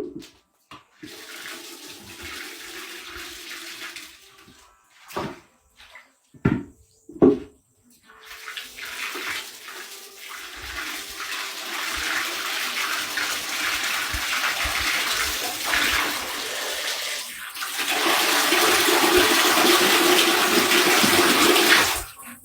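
Water running and splashing. It goes briefly at first, then again for a long spell that grows louder, and stops suddenly near the end, with a few sharp knocks in between.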